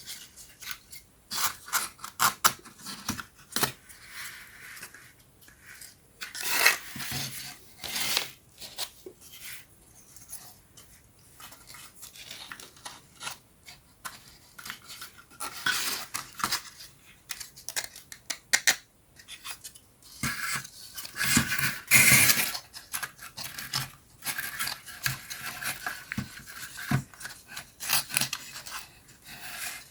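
Small plywood pieces of a 3D wooden puzzle being handled and fitted together: irregular clicks and taps mixed with scraping rubs, with a few longer, louder scrapes.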